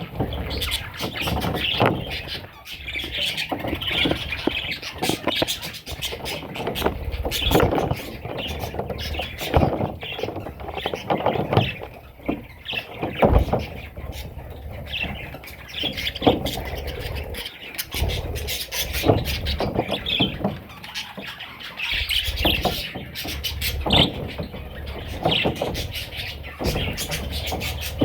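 Budgie chicks squeaking and squawking in repeated short calls, mixed with frequent knocks and bumps.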